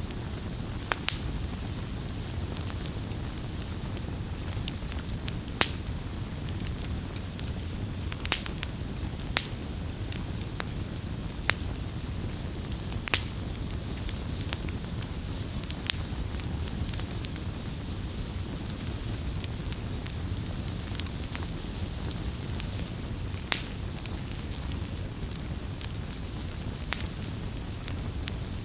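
Wood campfire crackling: a steady low rush of burning with sharp pops at irregular intervals, several seconds apart.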